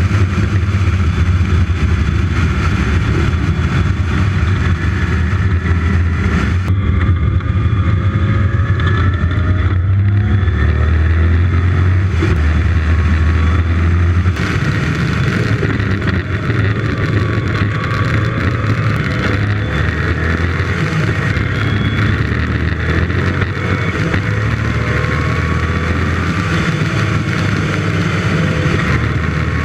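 Dry-sumped 5-litre V8 engine of a Westfield sports car heard from its open cockpit, running hard on track, its pitch rising and falling through the gears over the rush of air.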